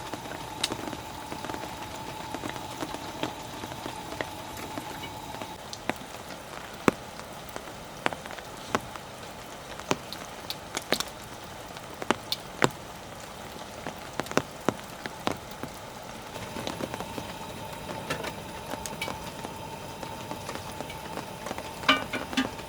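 Steady rain falling, with single heavier drops tapping sharply at irregular intervals and a quick flurry of taps near the end. A faint steady hum runs underneath.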